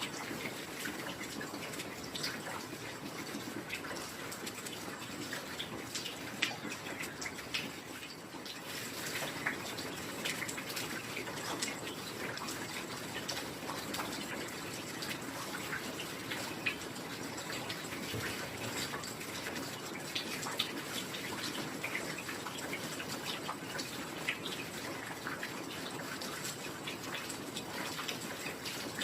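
Heavy rain falling steadily, with individual drops and drips standing out as many short scattered ticks over the even hiss.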